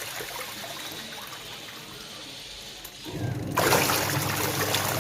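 Onida washing machine running with water sloshing and rushing inside it; about three seconds in a motor hum starts and the water noise grows louder. The machine runs normally after the repair.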